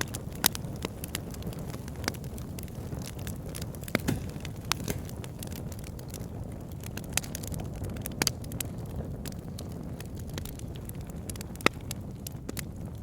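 Wood fire burning in a fireplace: a steady low rumble of flames with irregular sharp crackles and pops from the logs, a few louder snaps among them.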